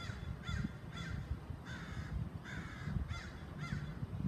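A bird calling over and over, about six short calls in a row, with a low rumble underneath.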